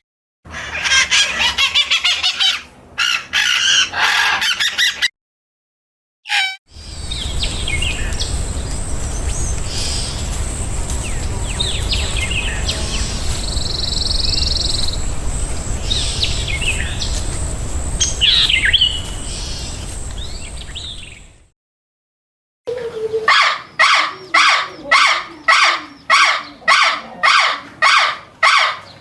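Songbirds chirping in three separate clips split by short silences. In the middle clip the chirps sit over a steady low rumble. The last clip is a quick run of repeated calls, about two a second.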